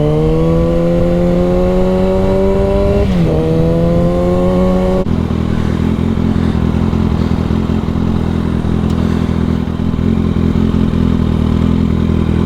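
Motorcycle engine pulling away under throttle, its pitch climbing, with a brief drop at an upshift about three seconds in and a second climb. At about five seconds it switches abruptly to a steady low engine note, like the bike idling.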